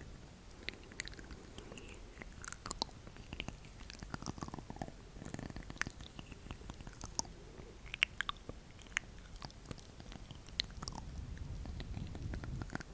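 ASMR mouth sounds: wet clicks and smacks at an irregular pace, with a short falling tone about four to five seconds in.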